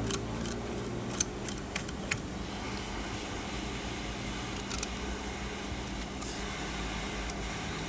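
Hot-air heat gun blowing steadily at a reduced heat setting, with a few sharp clicks and ticks from a fine blade cutting old adhesive off the phone's frame, most of them in the first two seconds.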